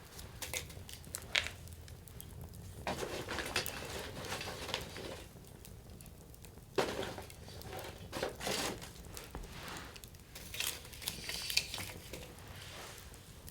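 Firewood burning in an open campfire, crackling steadily with sharp pops scattered throughout. The loudest pops come about a second and a half in, near seven and nine seconds, and again near twelve.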